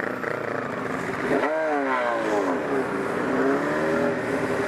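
Motorcycle engine revving: its pitch jumps up sharply about a second and a half in, falls away, then climbs again and holds steady over a constant rush of road and wind noise.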